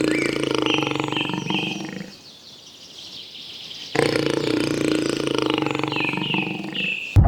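A large animal's long, low call, heard twice with a short pause between, with birds chirping behind it.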